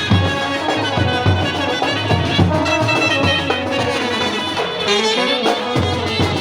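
Procession brass band playing a tune over a steady drum beat. The drums drop out for about a second near the end, then come back in.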